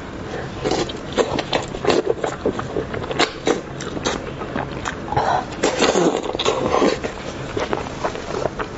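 Close-miked chewing and lip-smacking of braised lamb's tongue meat: irregular wet clicks and smacks.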